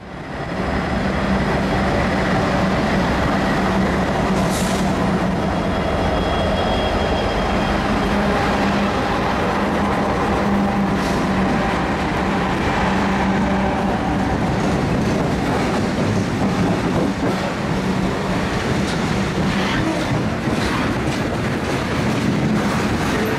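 Norfolk Southern freight train passing close by: a lash-up of six diesel locomotives going past with a steady engine drone, then freight cars rolling by with wheels clicking over the rail joints near the end.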